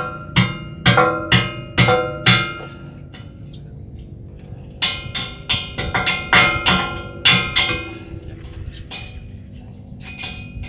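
Hammer blows on metal while a ship's propeller is being fitted, each strike ringing. There is a run of strikes at about two a second, a pause of about two seconds, a second run of about seven, then two slower blows near the end.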